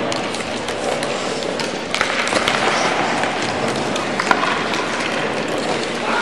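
Sledge hockey play in an ice arena: a steady din of crowd and rink noise with a few sharp clacks of sticks or puck, the loudest about four seconds in.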